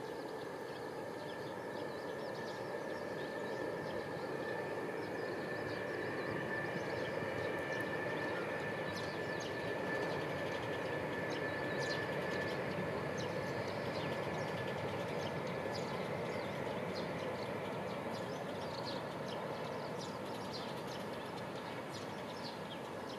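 Distant trains passing: a Shinkansen on the elevated viaduct and a long train of wagons on the line below it, a steady rumbling rush that swells to its loudest about halfway through and then slowly fades.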